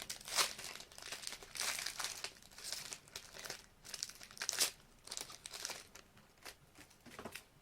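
Foil wrapper of a trading-card pack crinkling and tearing as it is handled and opened, in a string of irregular rustles that die away near the end.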